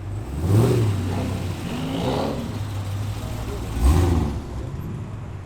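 Car engine idling, revved briefly twice: once about half a second in and again near four seconds in, each rev rising and falling quickly.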